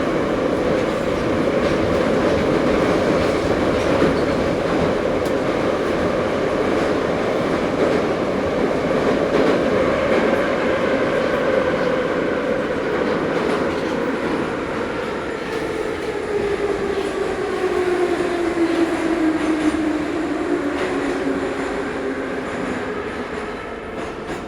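Ezh3 metro train running through a tunnel, heard from inside the car, with rolling noise and wheel clatter. In the second half the traction motors' whine falls steadily in pitch and the noise eases as the train slows for a station.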